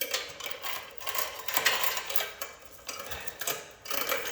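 Metal roller chain clicking and rattling as it is handled and oiled, in three bursts of rapid clatter.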